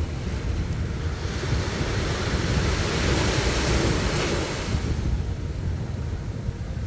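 Sea surf on a beach: a wave breaks and washes up, its hiss swelling about a second in and fading away near five seconds. Wind rumbles steadily on the microphone.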